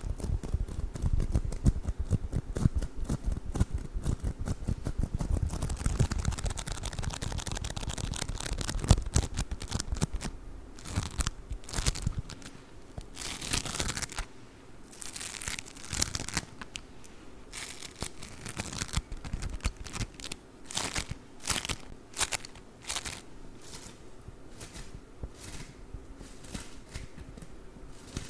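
Play Foam beaded modelling compound being squished and worked close to the microphone. For about the first twelve seconds it is a dense, rumbling crackle of handling. After that come separate sharp crackles and crinkles, spaced irregularly.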